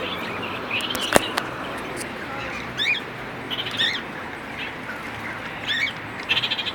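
Parrot chirping in short, scattered calls, with a quick run of calls near the end, and one sharp click about a second in.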